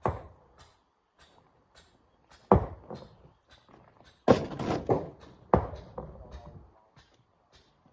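Rocks being loaded into a dump truck: five heavy thuds at irregular intervals, each with a short ringing tail, two of them close together about two thirds of the way through.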